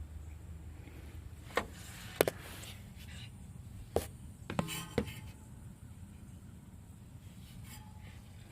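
Tools or small parts being handled and set down during the repair: about five sharp clicks and knocks, one a short rattle, the loudest a little over two seconds in, over a low steady hum.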